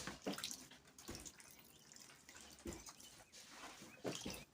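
Water dripping and splashing faintly as a heated plastic radiator tank is cooled with water from a bucket, with a few scattered knocks and splashes.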